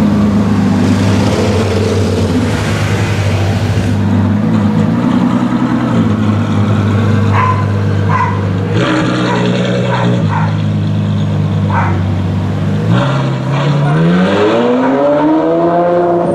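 Ferrari F12's V12 engine idling with a steady low drone, then revving up in a rising sweep near the end.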